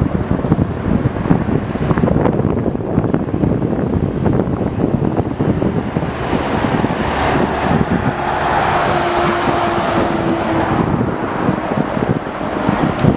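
Heavy wind buffeting the microphone, with a jet airliner's engine noise swelling from about six seconds in. A thin steady whine stands out briefly around nine to ten seconds before easing.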